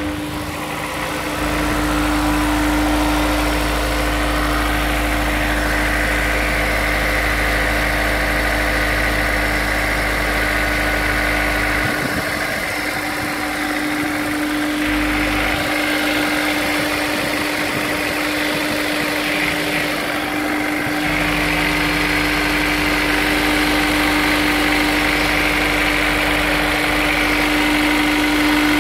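Honda S2000's four-cylinder engine idling steadily during warm-up after a cold start; the owner suspects a rod knock.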